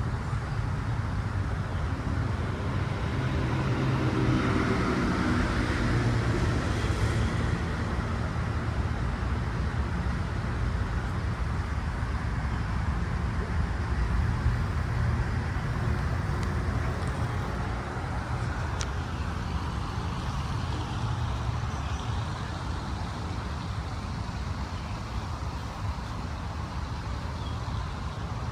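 Steady road traffic noise: a constant rumble and tyre hiss, louder for a few seconds about four seconds in as a heavier vehicle passes.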